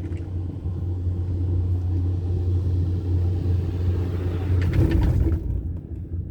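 Steady low rumble of a four-seat chairlift ride, with a brief rattling clatter about five seconds in, after which the sound drops away.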